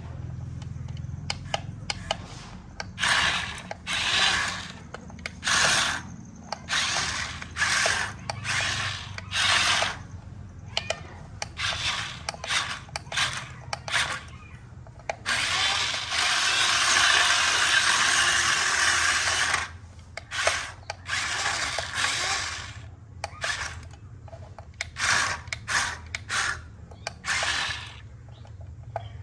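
Small geared electric motors of a toy RC dump truck whirring in short bursts, about a second each, stopping and starting, with one longer run of about four seconds in the middle.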